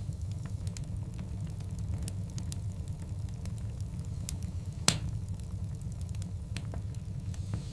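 Wood fire of large burning logs crackling: scattered sharp pops and snaps over a steady low roar, with one louder pop about five seconds in.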